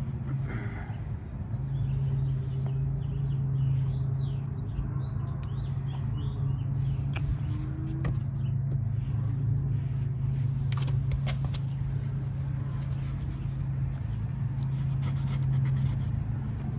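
A steady low engine hum that does not change, with a few short bird chirps a few seconds in.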